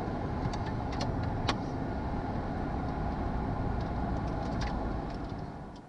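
Steady cockpit rumble of a Hawker 800XP business jet taxiing on the ground with its engines at idle, with a few faint clicks. The sound fades out near the end.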